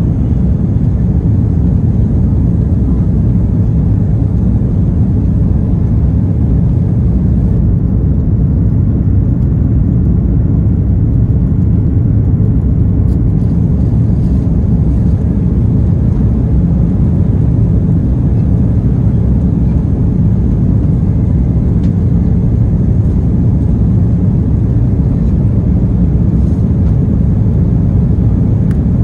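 Airbus A330-300 airliner cabin noise: a loud, steady low rumble of engine and airflow noise.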